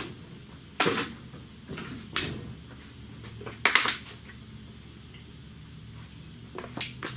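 A few separate metallic clanks and clinks of hand tools and parts being handled, the loudest a close pair a little before four seconds in, over a low steady hum.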